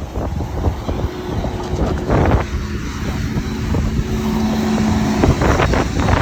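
A Mack garbage truck running, with wind buffeting the microphone. A steady whine holds for a few seconds in the middle, and there are short bursts of clatter before and after it.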